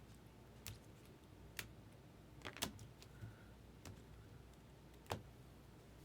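Faint, scattered clicks and light taps of trading cards being handled, about five in six seconds.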